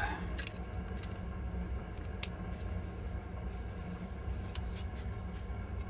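Plastic model-kit parts being handled and pushed together, giving a few faint, light clicks over a steady low hum.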